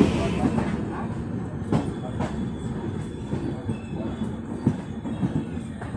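Passenger express train rolling slowly into a station, heard from an open coach doorway. The wheel rumble eases off as the train slows, with a few irregular clacks over rail joints and a faint high wheel squeal in the second half.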